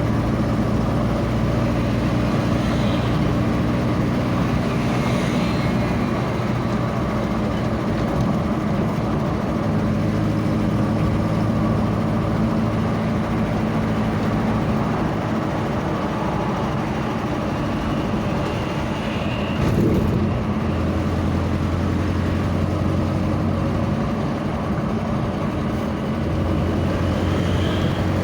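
A vehicle's engine running steadily under constant road noise while on the move, its pitch stepping down and up a few times as it changes speed. A brief knock about twenty seconds in.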